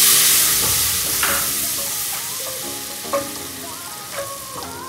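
Loud sizzle of a wet turmeric and red-chilli masala hitting hot oil, fading as it is stirred in with a wooden spoon that knocks a few times against the aluminium pot. Faint background music runs underneath.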